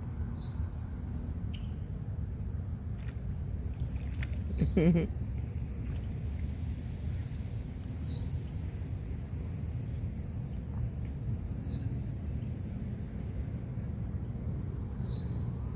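Outdoor summer ambience: a steady, high-pitched drone of insects, with a short, falling chirp repeating about every three and a half seconds over a low rumble. About five seconds in comes a brief, louder, wavering low-pitched sound.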